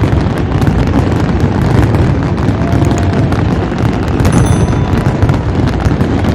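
Fireworks going off in a dense, rapid barrage, a continuous run of bangs and crackles with no gaps.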